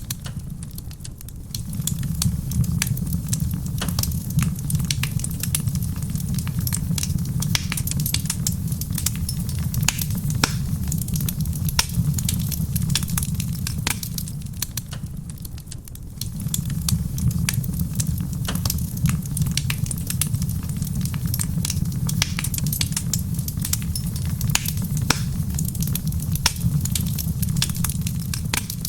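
Wood fire in a stone fireplace crackling with many sharp pops, over a low rumble that fades about a second in and again about halfway, then swells back. Soft rain on a roof lies beneath it.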